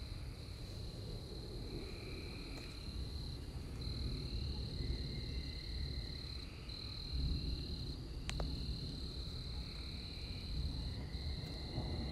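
Night insects trilling in a steady high-pitched drone that breaks off briefly a few times, with softer chirps a little lower, over a faint low rumble. One sharp click about eight seconds in.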